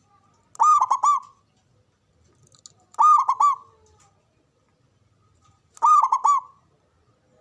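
Zebra dove (perkutut) cooing: three phrases about two and a half to three seconds apart, each a quick run of three or four rising-and-falling notes.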